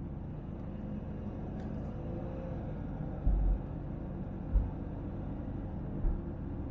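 Steady low rumble with three short, dull low thumps, about three, four and a half, and six seconds in.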